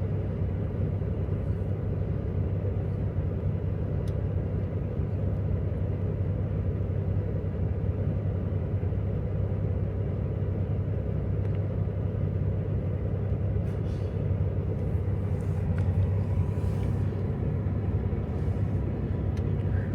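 Semi truck's diesel engine giving a steady low rumble, unchanging throughout.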